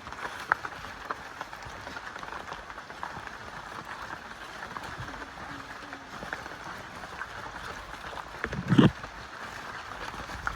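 Footsteps along a wet rainforest trail over a steady background hiss, with scattered light ticks and drips throughout. One louder thud comes near the end.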